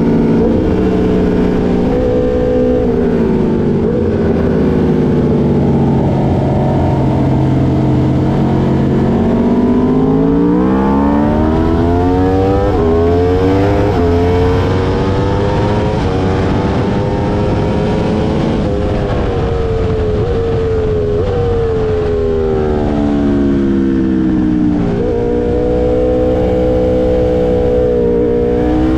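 2022 Aprilia RSV4's V4 engine through an SC Project S1 titanium exhaust, heard from on board at track speed. The engine accelerates hard with quick step changes in pitch at the upshifts, then drops in steps through downshifts as the bike slows, and revs up again near the end.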